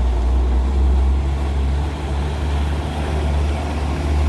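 Heavy diesel engine of mining equipment running with a steady low rumble.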